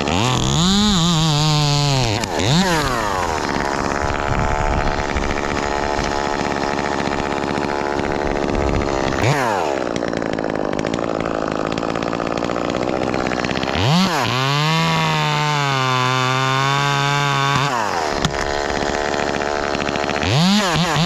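Ported Echo 2511T top-handle chainsaw (the Ripsaw) running hard, its engine note swooping up and down as it is revved. It runs long stretches at full throttle, as in cutting through limbs, and gives a series of quick throttle blips near the end.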